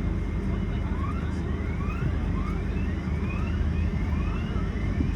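Steady low cabin rumble inside a Boeing 777-300 airliner. From about a second in, a faint rising chirp repeats about once a second, five or six times; its source is not known.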